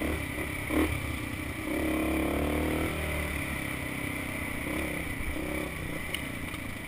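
Dirt bike engine running on the trail, the revs and loudness rising about two seconds in and easing back about a second later. A brief clatter sounds just under a second in.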